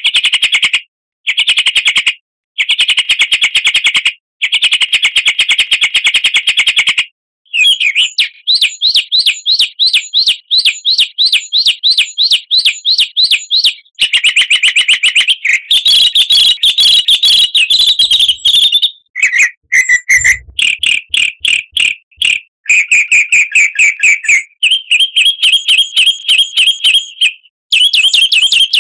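Loud, fast bird song in rapid repeated notes and trills, switching to a different phrase type every few seconds with brief clean breaks between phrases. It is a 'full isian' bird-song bait track: a medley of varied songbird phrases played to provoke caged songbirds into singing.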